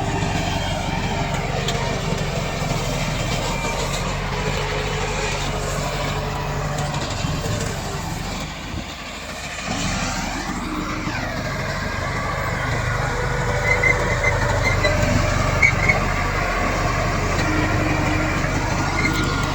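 Komatsu D68 bulldozer's diesel engine running steadily under load. It eases off briefly about nine seconds in, then revs back up with a rising pitch. A few short high squeaks come near the middle of the second half.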